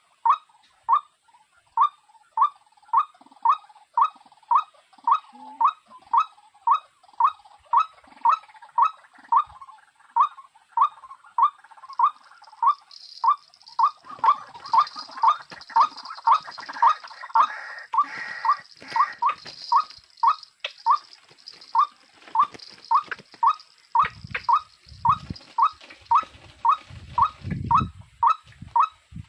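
A bird call: one short note repeated very evenly, about twice a second, without a break. Partway through a high hiss runs under it, and there are low rumbles near the end.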